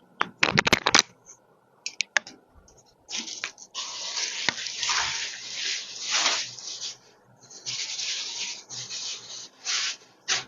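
Cloth rustling and rubbing in irregular bursts, with a few sharp clicks in the first second: clothes being handled while a dress is changed.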